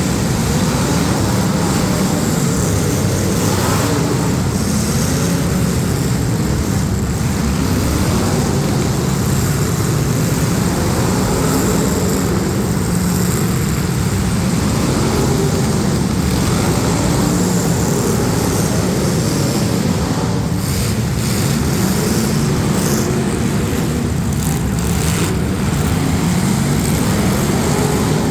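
Several demolition derby street stock cars' engines running and revving at once, loud and continuous, their pitches rising and falling.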